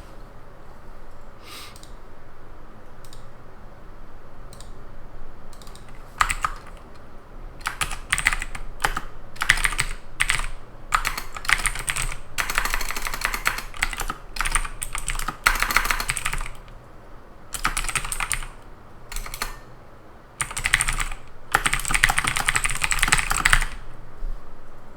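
Typing on a computer keyboard: a few scattered key presses at first, then fast runs of keystrokes in several bursts, each a few seconds long, with short pauses between.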